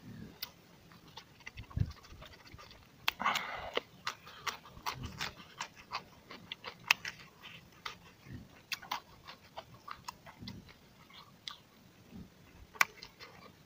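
Close-up mouth sounds of a man chewing a mouthful of rice and pork, with many short wet smacking clicks of lips and tongue throughout. There is a short breathy rush about three seconds in.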